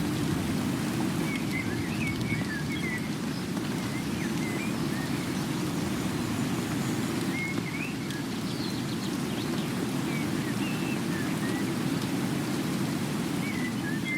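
Steady rain falling, with short high bird chirps scattered through.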